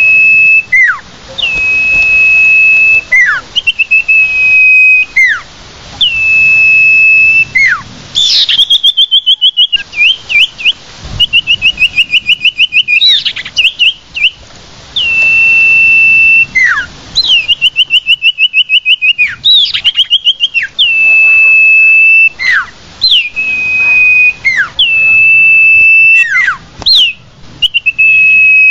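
Common iora (cipoh) song: long level whistles, each ending in a quick downward slide, repeated every couple of seconds. Three times these give way to rapid trills of fast repeated notes.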